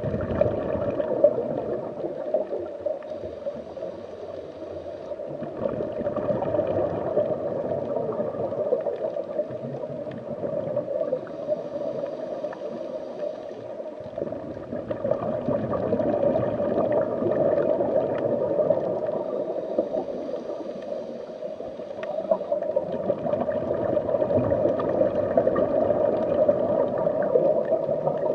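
Underwater water ambience: a muffled, continuous rushing and gurgling of water that swells and fades in slow waves every several seconds.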